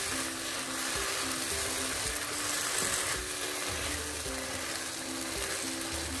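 Thick sarson ka saag sizzling in butter in a non-stick pan while a wooden spatula stirs and scrapes it, an even frying hiss. The butter is separating out at the edges, the sign that the saag is cooked. Soft background music plays underneath.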